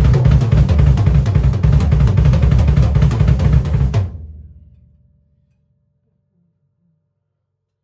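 Drum kit played fast and hard, dense bass drum and snare hits with cymbal wash, which cuts off suddenly about four seconds in; a low ring fades out over the next second, leaving near silence.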